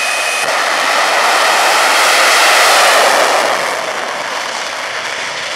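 Jet engine of a jet-powered semi truck: a loud rushing roar that swells to a peak about two to three seconds in and then fades.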